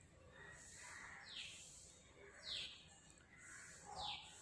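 A bird calling in the background: three short, faint chirps, each falling in pitch, about a second apart.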